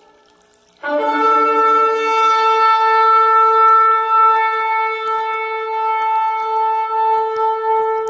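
Ram's horn shofar blown in one long held note. It starts abruptly about a second in, after a brief silence, with a short lower, rougher attack, then settles and holds a steady pitch.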